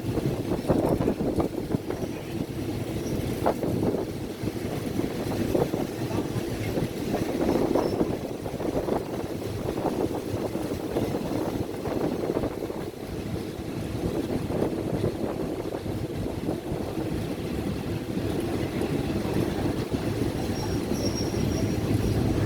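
Train running on the rails: a continuous rumble that swells and eases unevenly.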